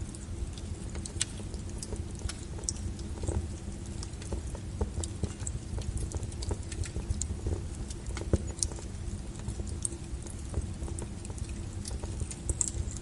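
Wood fire burning: a steady low rumble of flames with irregular crackles and sharp pops of burning logs throughout.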